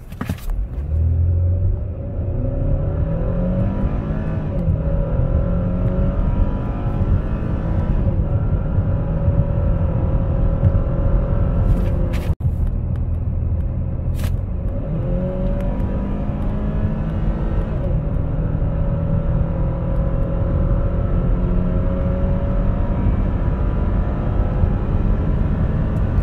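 2012 Buick Verano's 2.4-litre Ecotec direct-injected four-cylinder engine accelerating hard, heard from inside the cabin, its note climbing as the car pulls away from a standstill. The sound cuts out for an instant about twelve seconds in, then the engine note climbs again through a second hard pull from around 60 km/h to about 125 km/h.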